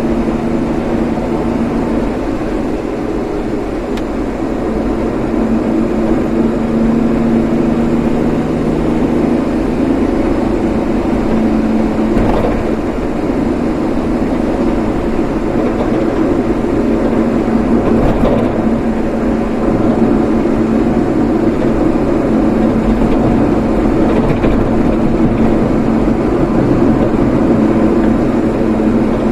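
A vehicle driving steadily: engine hum and road noise run on without a break, with small swells in level.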